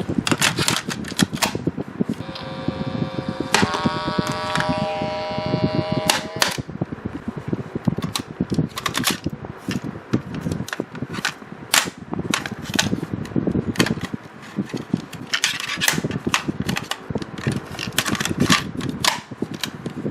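Plastic toy launcher being unscrewed and taken apart: a run of irregular clicks and knocks from the screwdriver and plastic case, over the steady hiss of an electric fan. About two seconds in, a squeal sets in and holds for roughly four seconds, stepping up in pitch partway through.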